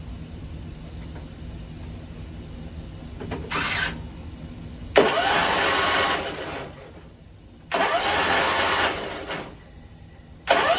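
Kawasaki FR691V V-twin mower engine cranked over by its electric starter with the spark plugs out, spinning freely in four bursts: a short one, then three of about a second and a half, each starting with a rising starter whine. These dry turnovers push oil through the pump, pistons and rods before the first start.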